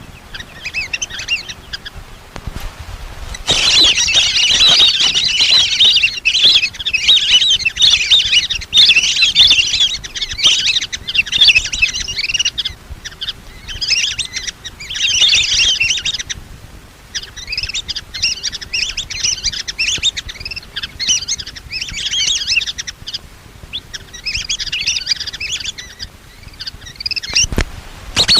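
Lesser whistling ducks calling: a dense flock chorus of high, thin whistled chirps in repeated bursts with short lulls, as used for a lure call to draw the ducks in.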